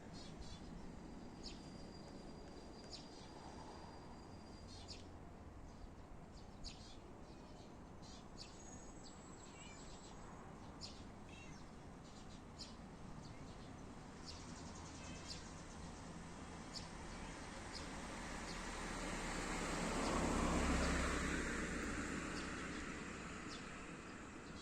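Quiet outdoor ambience with scattered short, high chirps and clicks. A low rumble swells and fades about twenty seconds in.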